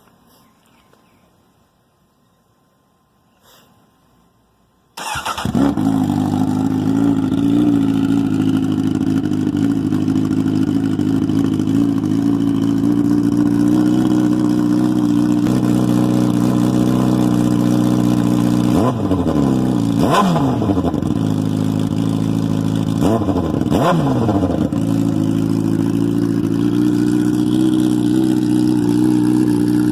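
Motorcycle engine running hard at steady, high revs, cutting in suddenly about five seconds in. Twice, near two-thirds of the way through, the revs drop and climb again.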